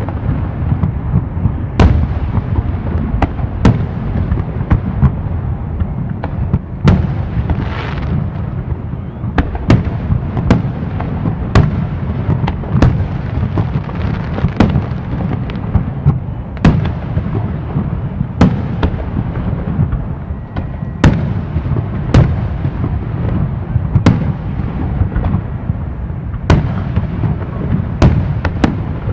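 Fireworks show: aerial shells bursting with sharp bangs about once a second over a continuous low rumble of further explosions, with a short hissing crackle about eight seconds in.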